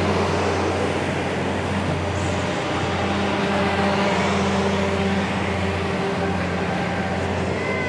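Canadian Pacific freight train's boxcars rolling past close by, a steady rumble of wheels on the rails with a steady low hum under it.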